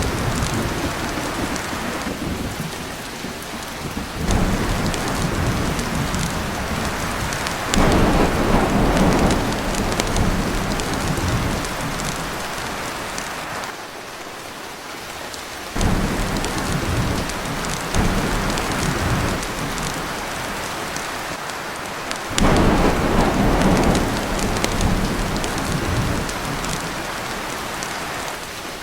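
Heavy rain pouring steadily on a tin roof, with rolls of thunder that set in suddenly about five times and die away over several seconds each.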